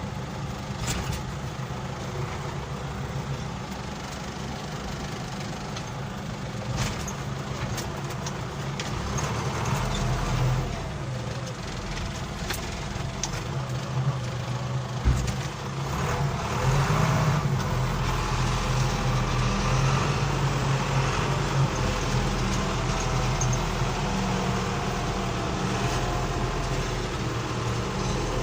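Front-end loader's diesel engine running, with its pitch rising and falling as it works the bucket, and a few knocks through it.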